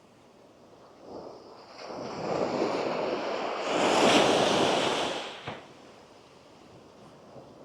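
A gentle Andaman Sea wave breaking and washing up the sand. It builds from about a second in, is loudest around four seconds, then fades away.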